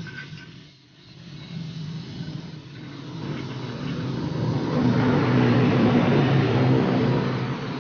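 A motor vehicle's engine passing by, growing louder to a peak and then fading away.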